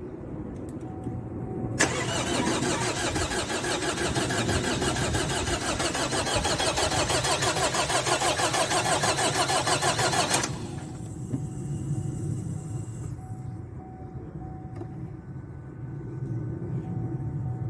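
2012 Chevrolet Cruze 2.0-litre four-cylinder turbodiesel being cranked by its starter for about eight seconds, a long, fast, even churning. The cranking then stops abruptly and a quieter, steady running sound follows, like the engine catching and idling after a hard start.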